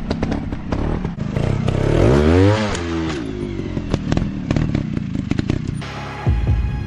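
Dirt bike engine running, revving up and back down about two seconds in, with repeated clattering knocks. Near the end, music with a low thumping beat comes in.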